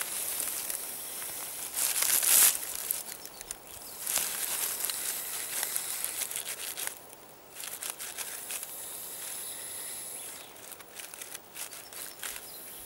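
Grass snake hissing in repeated bursts of breathy hiss, the loudest about two seconds in. This is its defensive display, mimicking a viper. Dry leaves rustle as it moves.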